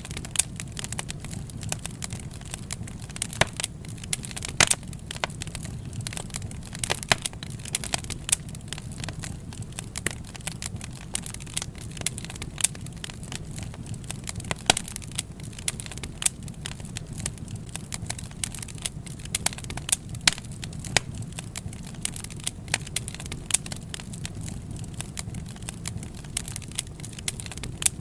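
Wood fire crackling: irregular sharp pops and snaps, several a second, over a steady low rumble of the burning logs.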